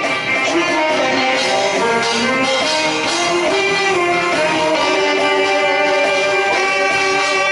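Music: an alto saxophone playing a Korean trot tune over a backing track with guitar.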